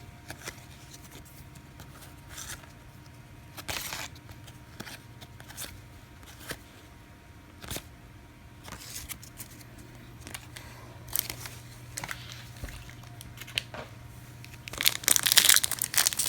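Trading cards being handled, with scattered soft clicks and rustles, then near the end a foil card-pack wrapper crinkling loudly as it is torn open.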